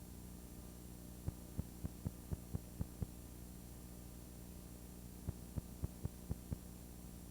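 Steady electrical mains hum with faint hiss, broken by two runs of sharp clicks at about four a second, one starting about a second in and one about five seconds in.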